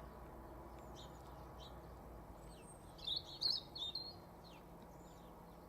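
Small songbirds chirping and calling faintly, with a louder run of quick high chirps about three seconds in.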